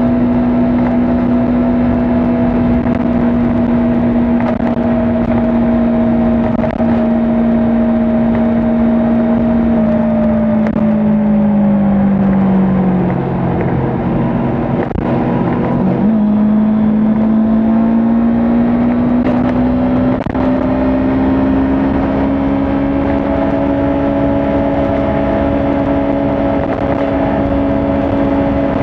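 Kawasaki Ninja 400 parallel-twin engine running at expressway speed under wind noise. About ten seconds in, its note falls away as the bike slows. Around sixteen seconds in it steps back up sharply, then climbs steadily as the bike accelerates.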